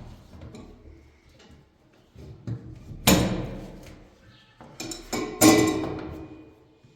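Two loud clattering knocks, about three and five and a half seconds in, each dying away over a second, with lighter clicks between.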